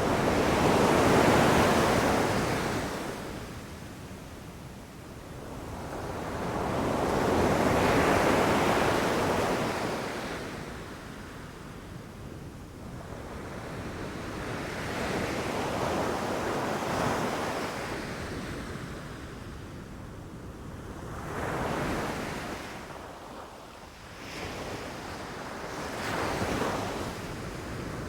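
Ocean waves breaking on a beach, swelling and washing back in slow surges every six or seven seconds, the first two the biggest and smaller ones closer together near the end. Wind buffets the microphone at times.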